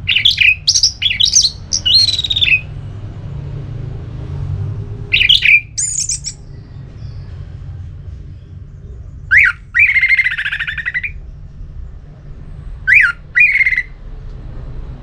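Orange-headed thrush singing: four short bursts of quick, high, gliding whistled notes a few seconds apart, over a steady low rumble.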